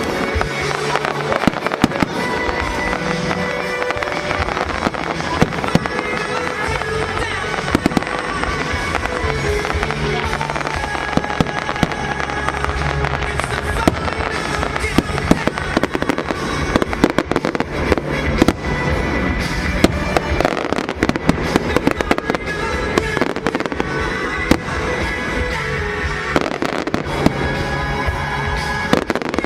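Fireworks display: a continuous run of sharp bangs and crackling bursts, with music playing alongside.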